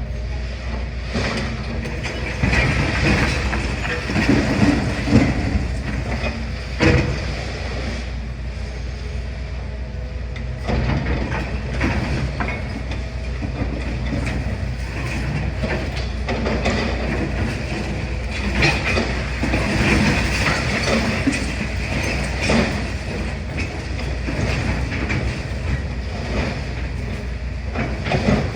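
Demolition excavator working: a steady diesel engine hum under irregular clanks, knocks and crunches of rubble and metal, with some squealing, throughout.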